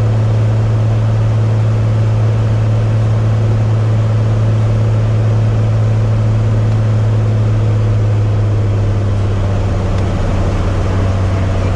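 Cessna 185 Skywagon floatplane's engine and propeller running steadily at high power, a loud low drone heard from the cockpit, as the plane runs on the step across the water.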